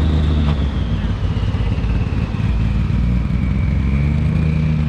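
Car engine running steadily at low revs, with a thin high whine slowly falling in pitch.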